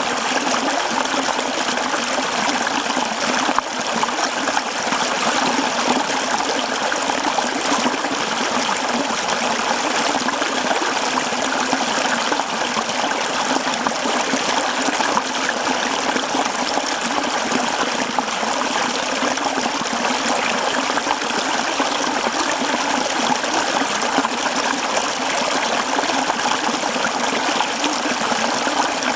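Mountain stream running over rocks, a steady, even rush and babble of flowing water.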